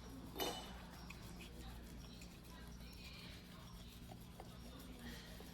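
A single sharp knock about half a second in, then faint intermittent scraping of a steel knife blade on a whetstone over a steady low hum.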